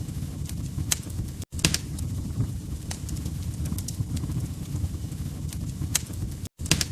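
Wood fire crackling: irregular sharp pops and snaps over a low steady rumble of burning logs. The sound cuts out for an instant twice, about a second and a half in and near the end.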